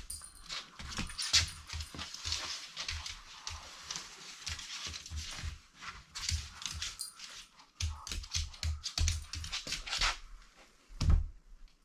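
A dog moving about and snuffling on a bare floor, among irregular scuffs, clicks and dull knocks.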